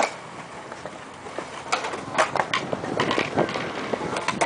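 Skatepark sounds: skateboard wheels rolling on concrete, with sharp clacks of boards hitting the ground, a few near the start, around two seconds in, and near the end.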